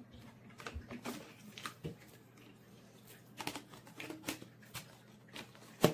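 Hard plastic parts of a Bissell CleanView Compact upright vacuum being handled, with scattered light clicks and knocks as an accessory is taken out and fitted, and one sharp knock near the end.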